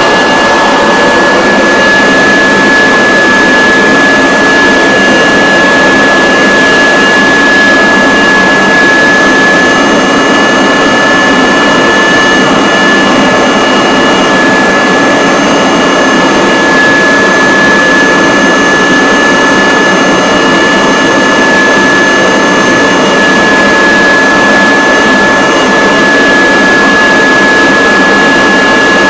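Kirby vacuum cleaner motor running steadily, a loud whooshing drone with a high, steady whine over it.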